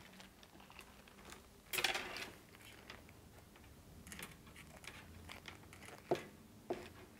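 Quiet handling of the flexible rods and hand tools. There is a short rustle about two seconds in and two light clicks near the end.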